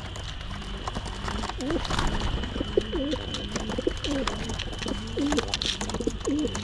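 Racing pigeons cooing: a run of low, rising-and-falling coos repeating from about a second and a half in, with scattered light clicks.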